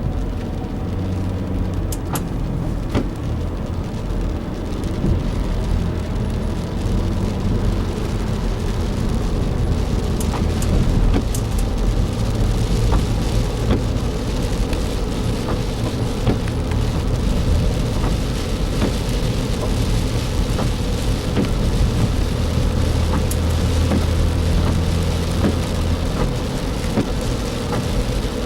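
Rain on a moving car while driving: a steady low drone of engine and tyres under an even hiss of rain on the body and windshield, with scattered sharp ticks of drops. The rain grows heavier from about ten seconds in.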